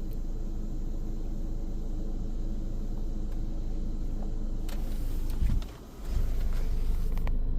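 Steady low mechanical hum of an automatic car wash and the idling car, heard from inside the car between wash stages. The hum dips sharply for about half a second just before six seconds in, with a few faint clicks in the second half.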